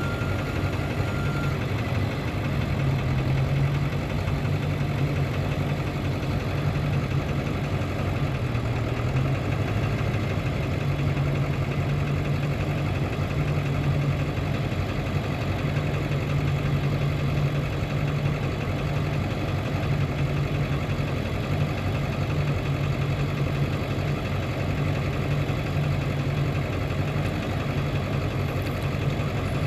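2000 Ford F450 dually truck's engine idling steadily.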